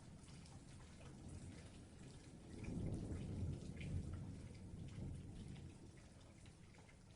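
Steady rain falling, with scattered drops pattering. A low rumble swells up about two and a half seconds in and fades away by about five seconds.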